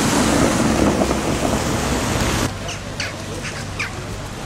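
Steady rushing noise that cuts off suddenly a little past halfway, followed by a run of short, high bird calls.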